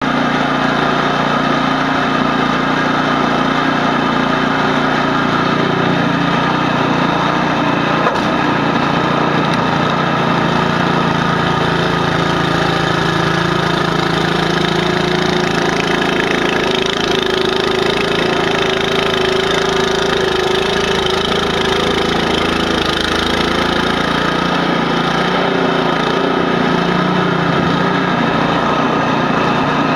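Snowblower's small engine running steadily under load, its pitch wavering slightly partway through.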